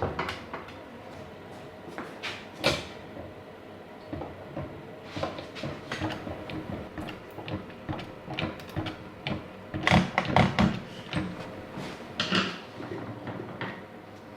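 Scattered clunks, knocks and scrapes of metal parts being handled as a motorcycle engine is worked back into its frame, with a burst of several knocks about ten seconds in.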